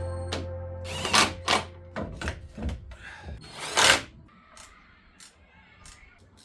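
Background music fading out over the first two seconds, over a series of sharp clicks and knocks, the loudest near the end of the music and again about four seconds in, then fainter ticks.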